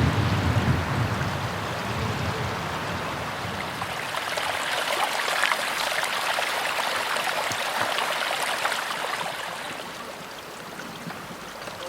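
Small mountain stream running and splashing over rocks, with a low rumble of wind on the microphone in the first second or two; it grows a little quieter near the end.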